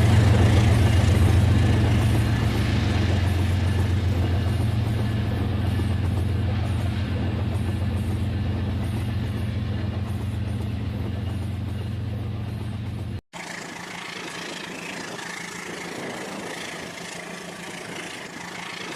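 Rail King toy train running, its small motor and gears giving a steady low hum with a fast even rattle. It starts loud, slowly fades, cuts out briefly about 13 seconds in, and then goes on more quietly.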